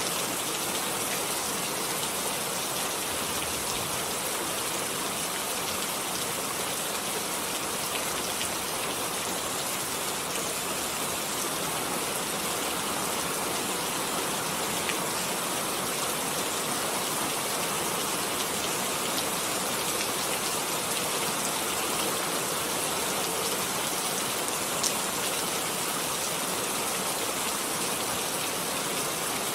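Steady rain falling, an even hiss with scattered drops ticking; one sharper tick a few seconds before the end.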